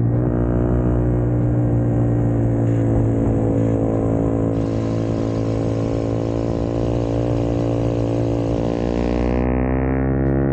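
Small Honda 4-mini motorcycle engine running while riding, steady at first, then its pitch rising over the last few seconds as it speeds up.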